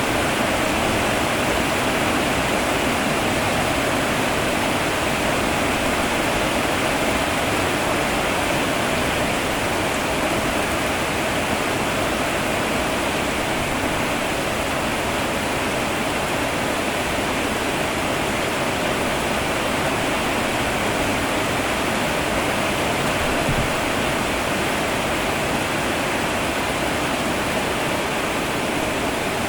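Steady heavy rain: an even, unbroken rushing hiss with no individual drops or pauses standing out.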